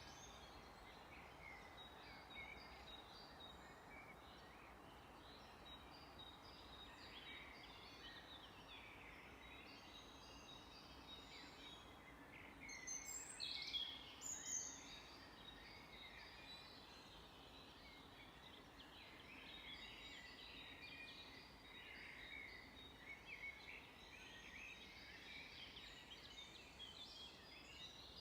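Several small birds chirping and singing in a forest, with a louder burst of calls about halfway through, over a faint background hiss.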